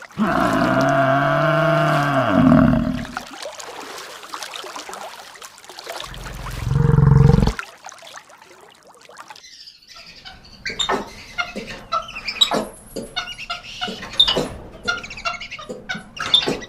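A run of different animal calls, one after another: a loud, drawn-out pitched call at the start, a short low call about six seconds in, then a rapid series of chirps and clicks through the last six seconds.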